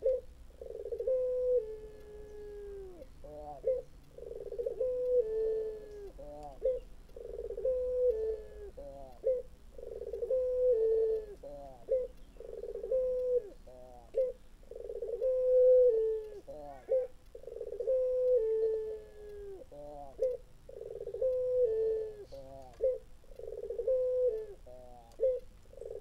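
Barbary dove (burung puter) calling over and over, about one call every two seconds. Each call is a low coo that steps down in pitch, run straight into a quick string of short falling notes. This is the giggling call likened to the laugh of a kuntilanak ghost.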